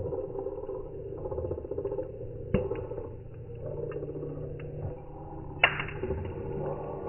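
Bonfire crackling, with many small snaps and two loud pops, about two and a half and five and a half seconds in.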